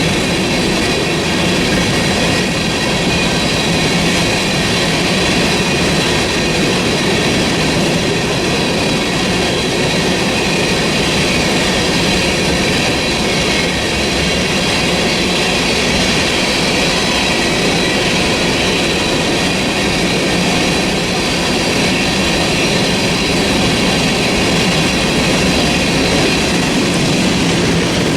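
Freight train cars rolling steadily past, a continuous rumble of steel wheels on rail with a thin, steady high-pitched wheel squeal over it.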